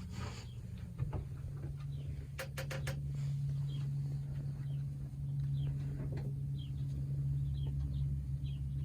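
Birds outside the window, pigeons among them: short high chirps scattered through, with a quick run of sharp taps about two and a half seconds in, over a steady low hum.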